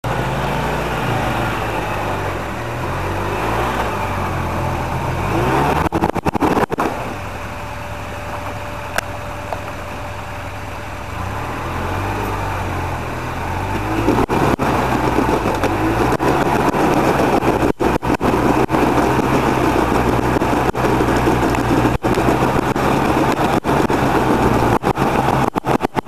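2007 Polaris Ranger XP utility side-by-side engine running and revving under load as it climbs, its pitch rising and falling. It eases off for a few seconds about a third of the way in, then runs harder from about halfway. The sound cuts out briefly several times, most often near the end.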